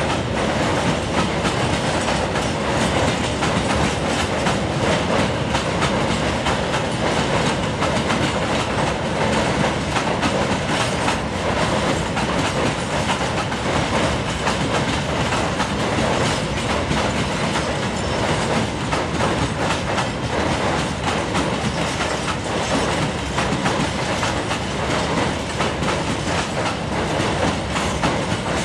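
Coal hopper wagons of a long freight train rolling steadily across a steel girder bridge: a continuous rolling rattle of wheels on rail with many fine, closely spaced clicks.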